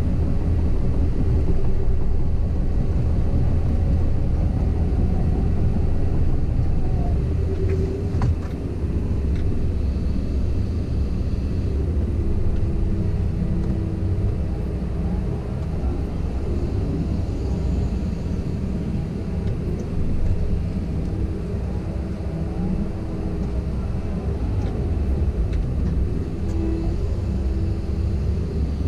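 Komatsu PC170LC-10 excavator's diesel engine running steadily, with a faint hydraulic whine that shifts in pitch as the machine works and a few light clicks.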